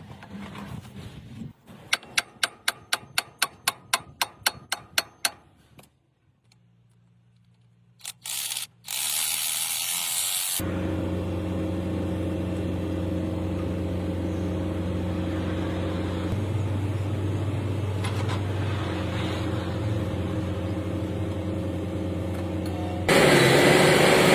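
About a dozen sharp knocks, roughly three a second, then a short lull, then a heavy machine engine running steadily, getting louder near the end.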